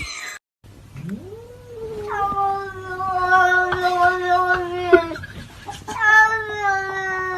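A cat yowling: one long drawn-out call that rises and then holds a nearly steady pitch for about four seconds, followed by a second long yowl starting about six seconds in.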